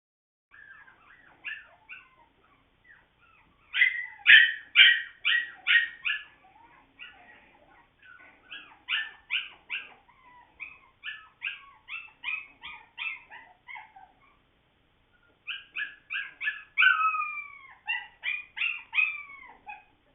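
Puppies crying: quick strings of short, high-pitched yips and whines in several bursts, with a few longer falling whines near the end.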